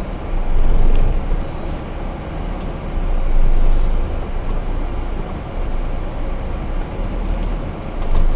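Heavy truck's diesel engine running while the truck reverses uphill, heard from inside the cab as a steady low rumble that swells louder twice, about a second in and again around three to four seconds in.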